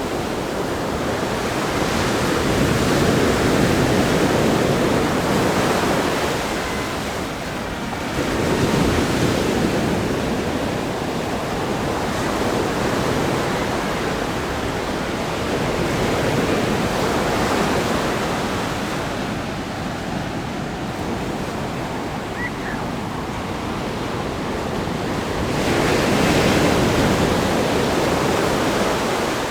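Ocean surf breaking on a rock groin and sandy shore: a continuous wash of water that swells and fades with each breaking wave, four times.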